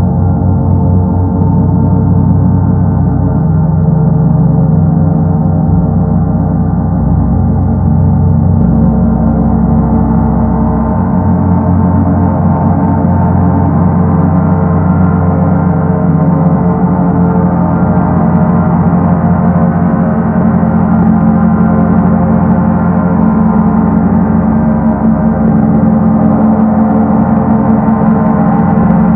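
Paiste Sedna planet gong sounding continuously with a rumbling tone: a dense cluster of steady overtones over a deep hum, the upper overtones growing brighter through the second half.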